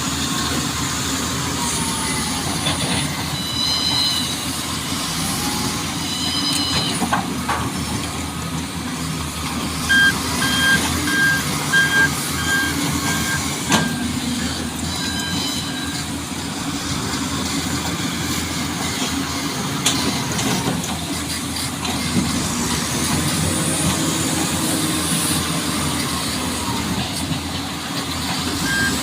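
A dump truck's engine running steadily. From about a third of the way in, a reversing alarm beeps at about two beeps a second for several seconds, and a couple of brief higher tones sound earlier.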